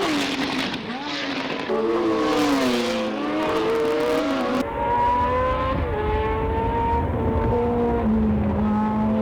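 Engines of 1970s Formula One cars, several at once, revving up and down in pitch. About halfway through an abrupt cut switches to a clip where the engines hold steadier notes.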